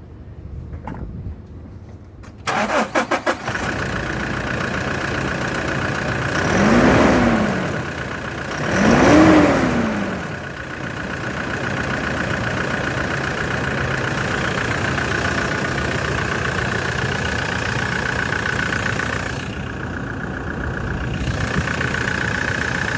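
2018 Toyota Hilux engine cranked by the starter about two and a half seconds in, catching and settling into a steady idle. It is revved twice, around seven and nine seconds in, each time rising and falling back to idle.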